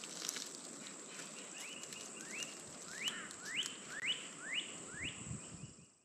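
A bird calling a series of short upslurred whistles, about two a second, growing louder over the series, with a faint steady high tone beneath.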